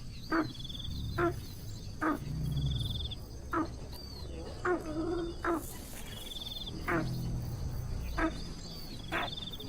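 Short, sharp animal calls repeated roughly once a second, with brief buzzy high chirps in between.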